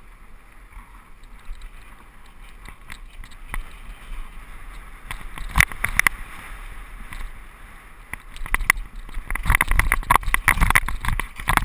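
Mountain bike rolling down a rough dirt trail: the frame and drivetrain rattle and knock over bumps, with tyre noise and wind rumble on the microphone, growing louder and busier near the end.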